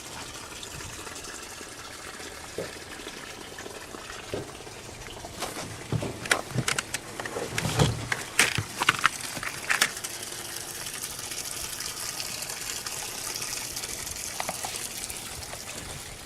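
Water gushing and splashing steadily, with a scatter of sharp knocks in the middle and the hiss growing brighter near the end.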